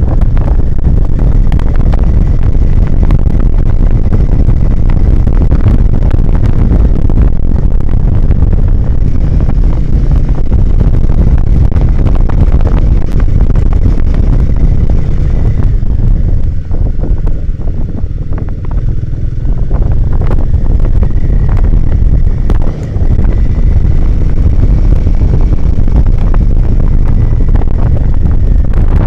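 Heavy wind buffeting a motorcycle-mounted camera's microphone on a moving dirt ride, with the motorcycle's engine running underneath. The noise eases briefly about two-thirds of the way through, then picks up again.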